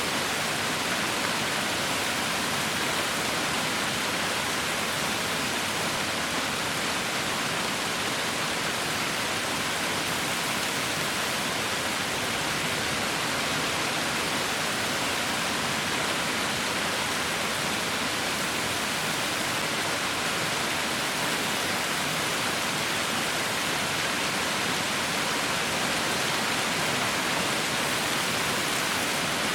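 Heavy rain falling in a steady, even hiss with no separate drops or thunder standing out.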